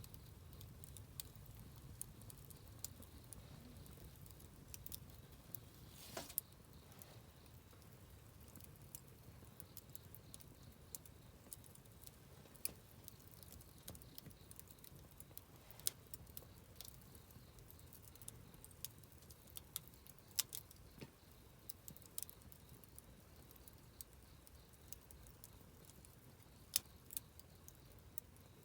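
Wood campfire crackling quietly: sparse, irregular sharp pops and snaps, one louder pop near the end.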